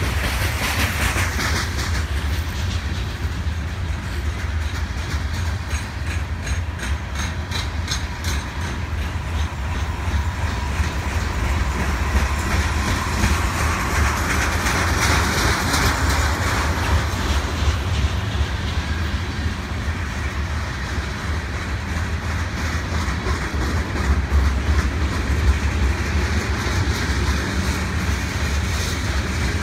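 Freight cars of a long freight train rolling past: a steady low rumble of wheels on rail, with rapid clicking of wheels over the rail joints, clearest in the first several seconds.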